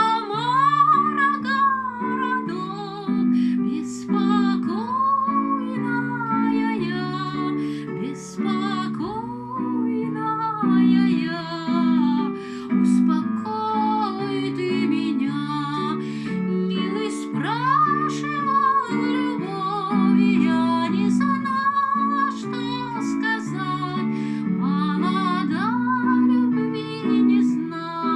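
A woman sings a Russian folk song over a sustained instrumental accompaniment of held chords.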